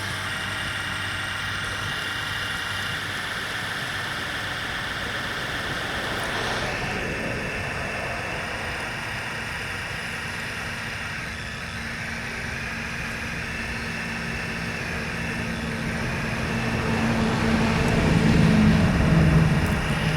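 Remote-control model construction trucks running, a steady mechanical whine with a low hum beneath. The sound grows louder about three-quarters of the way through and falls back just before the end.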